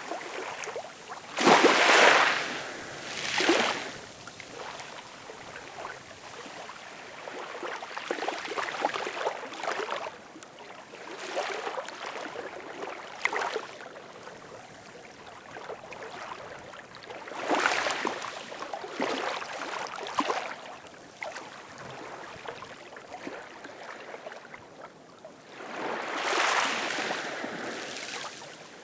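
Ocean waves breaking, in repeated surges of rushing water every few seconds, the loudest about two seconds in.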